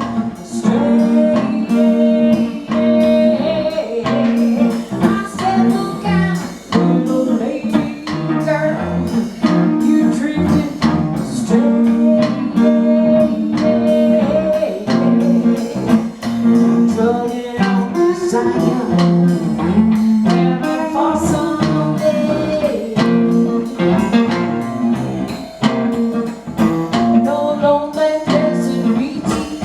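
Live blues music with guitar to the fore: plucked and strummed strings keeping a steady rhythm.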